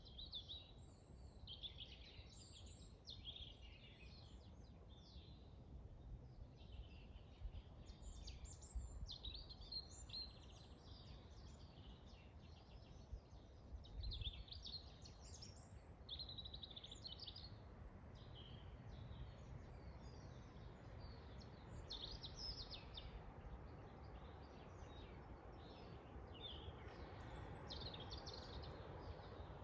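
Faint chorus of forest birds chirping and singing in short, overlapping calls, over a low rumble of wind; the wind hiss swells near the end.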